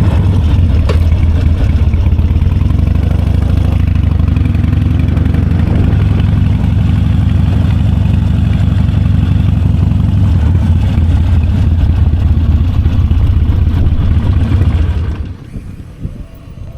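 Large motorcycle engine running steadily and loudly close to the microphone just after being started, then dropping away sharply about 15 seconds in.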